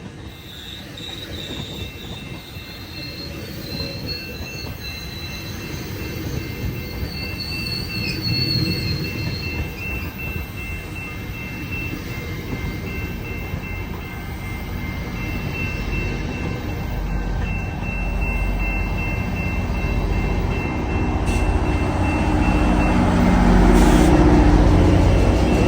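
Train passing with its wheels squealing on the rails in a high, wavering squeal, under a low rumble that grows steadily louder toward the end.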